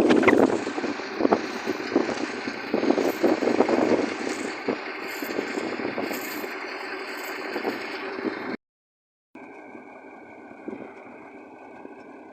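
Heavy vehicle engines working under load with clattering and rattling as a tractor pulls a loaded truck out of mud. About eight and a half seconds in the sound cuts out briefly and comes back as a quieter, steadier engine hum.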